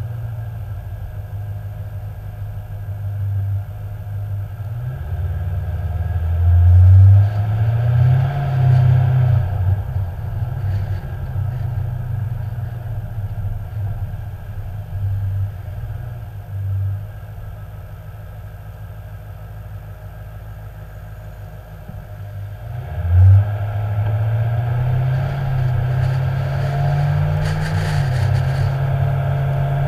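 Ford Mustang engine heard from a hood-mounted action camera, with wind noise on the microphone. It speeds up about five seconds in, drops back to a low, quieter run in the middle, then accelerates again near twenty-three seconds and holds a steady higher drone.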